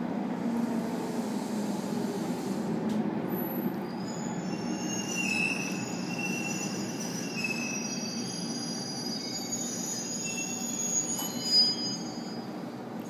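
JR 811 series electric train heard from inside the carriage as it brakes into a station: a steady low running rumble, with high thin squealing from the wheels and brakes from about four seconds in as it slows. A brief knock near the end as it comes to a stop.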